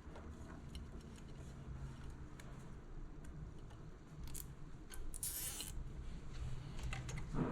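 A plastic zip tie being pulled tight around motorcycle wiring, ratcheting in a short rasp about five seconds in, amid small clicks of handling.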